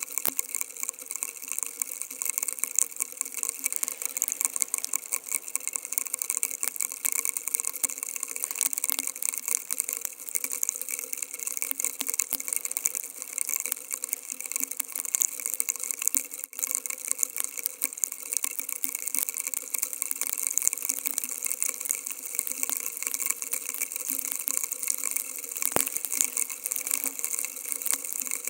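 Steady hiss of heavy rain, full of fine crackle.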